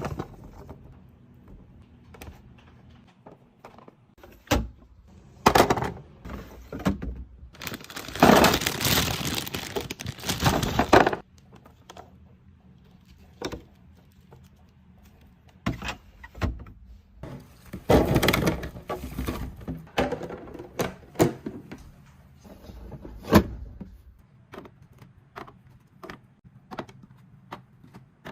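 Kitchen items being handled during restocking: a run of knocks, clicks and thunks as things are set down, with two longer spells of rustling or crinkling about eight seconds in and again near eighteen seconds.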